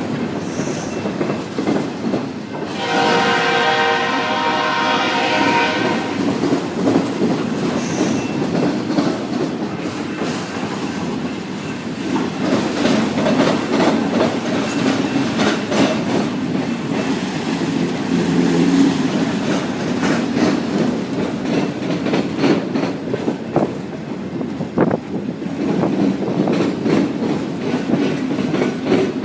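Autorack freight cars rolling past on a curve: a steady rumble and clatter of steel wheels on rail, with scattered clicks over the joints. About three seconds in, a held tone with many evenly spaced pitches sounds for roughly three seconds.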